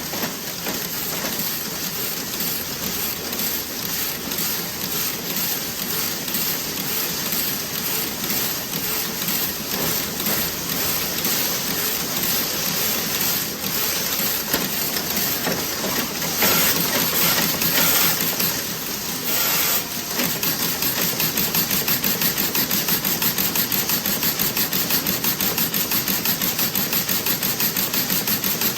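Toe-sock knitting machine running: a fast, continuous mechanical clatter, with two louder hissing spells a little past the middle and an even, pulsing rhythm in the last third.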